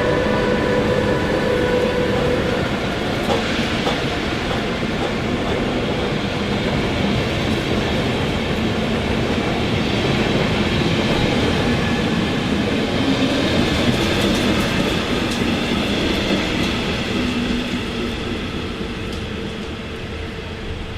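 A train moving along the platform track at close range, with wheel and running noise throughout. A steady whine at the start stops about two and a half seconds in, a sharp click follows soon after, and the sound fades over the last few seconds.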